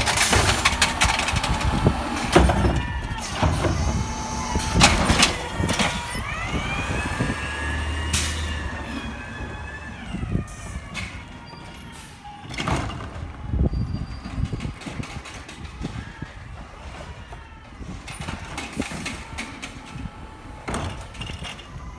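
Garbage truck at work: its engine rises in pitch as it revs for a few seconds, with repeated clanks and bangs of metal, louder in the first half.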